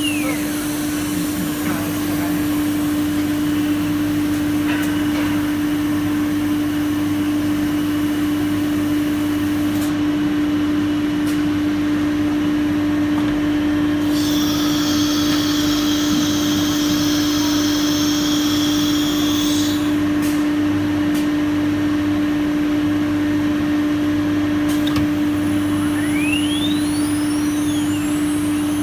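Automatic tool changer CNC router running: a steady machine hum with one strong tone throughout. A high whine falls in pitch about a second in, and another rises again near the end, with a band of high ringing tones in the middle.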